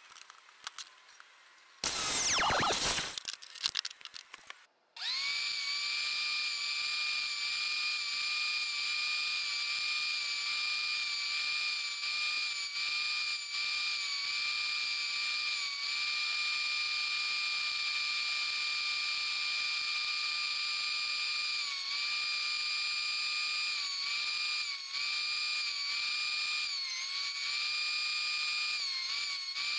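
A brief loud burst of noise from the miter saw about two seconds in. From about five seconds, the WEN benchtop thickness planer runs with a steady high-pitched whine that sags briefly in pitch several times in the second half.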